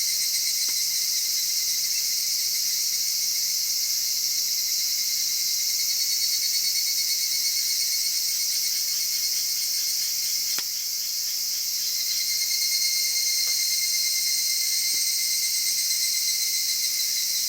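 A dense, steady chorus of crickets and other insects, shrill and unbroken, with a few faint clicks: one near the start, one about midway and one a few seconds later.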